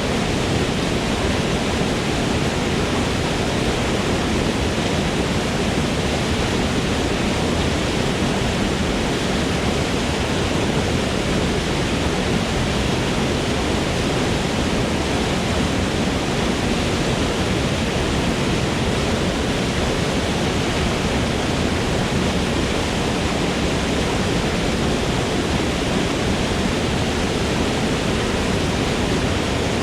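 Waterfall in a forest: falling water rushing as a steady, even noise with no change.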